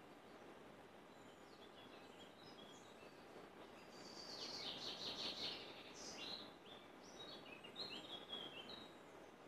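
Wild birds chirping and singing over a faint steady background hiss, with a quick run of high notes about four seconds in and scattered short chirps after.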